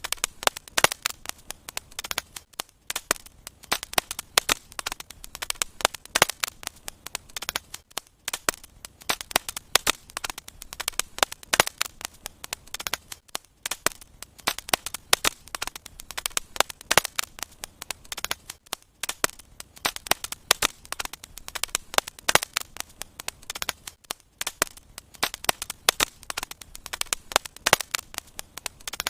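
Wood fire burning in a fireplace, crackling and popping in quick, irregular snaps.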